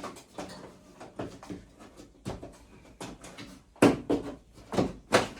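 Irregular knocks and clunks from hands-on work on a van, a dozen or so sharp hits with short pauses between them, loudest a little under four seconds in and again near the end.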